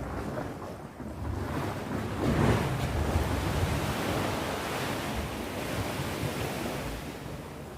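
Sea waves breaking on the shore: a wave crashes about two seconds in, and its surf keeps washing before easing off near the end.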